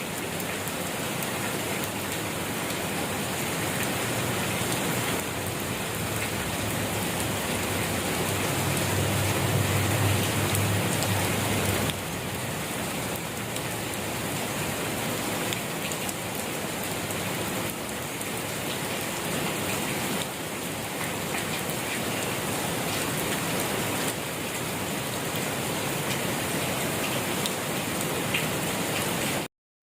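Steady rain falling on a surface, a dense even patter of drops. A low rumble swells underneath for several seconds around the middle, and the sound cuts out briefly just before the end.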